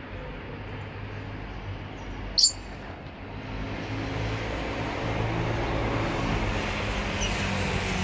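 A lovebird gives one short, shrill chirp about two and a half seconds in, over a steady background hum and hiss that grows louder in the second half.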